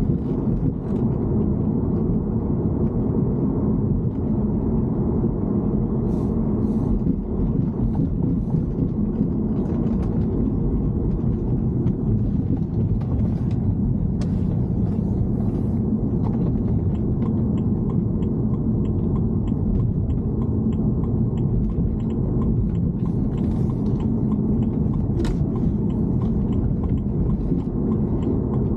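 Steady low rumble of a BMW E90 3 Series in motion, with faint clicks and ticks over it that settle into a fairly regular run in the second half. This is the abnormal noise (異音) being recorded.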